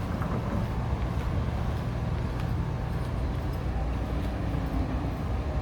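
Steady low rumble of vehicle traffic noise.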